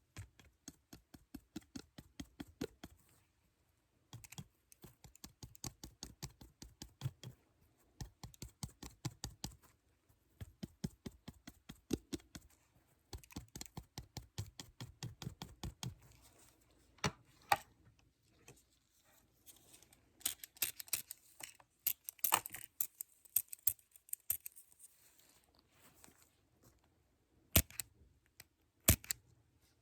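Typing on a computer keyboard: rapid key clicks in bursts of a few seconds each. Later come a few seconds of rustling and some loud single clicks near the end.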